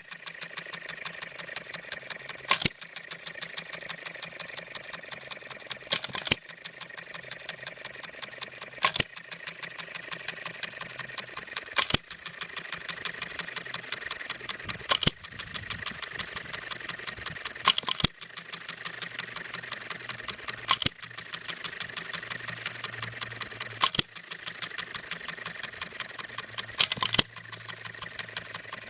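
Seven Mountains scale New Holland hit-and-miss engine running on its make-break ignition: a fast, steady mechanical ticking as it coasts, with a loud firing stroke about every three seconds, twice coming in a close pair.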